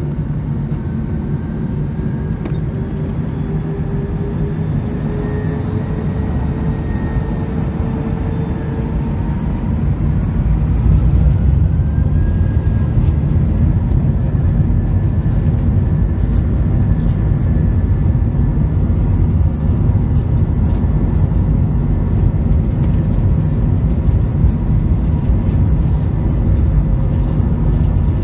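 Jet engines of an Airbus A321 heard from the cabin, whining steadily higher as they spool up. About ten seconds in, the low rumble grows louder and then holds steady, as with the engines coming up to takeoff thrust.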